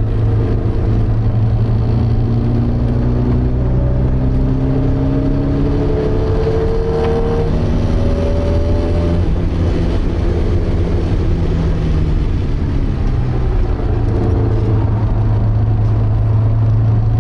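Porsche 924's 2.0-litre four-cylinder engine heard from inside the cabin, running hard and steady at speed, with fainter tones rising slowly from about two to nine seconds in.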